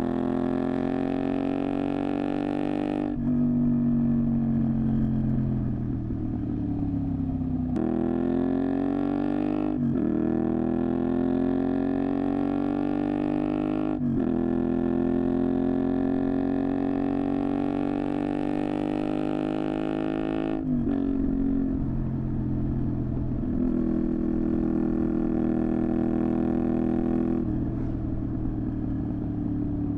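Honda VTR250's 90-degree V-twin running through a Moriwaki exhaust while riding. The pitch falls as it slows about three seconds in, then climbs again with short dips at two upshifts. It drops near the end and settles into a lower, steadier note.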